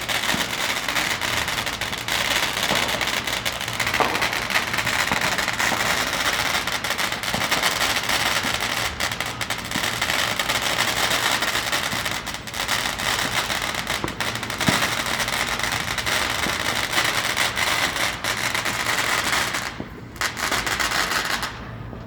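Many fireworks and firecrackers going off at once: a dense, unbroken din of pops and crackles with sharper bangs scattered through it. It drops away near the end.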